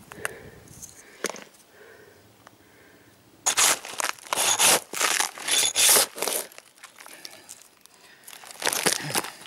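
Old bitumen roll roofing felt being torn and pried up, crackling and tearing in several loud bursts from about three and a half seconds in, with one more shortly before the end.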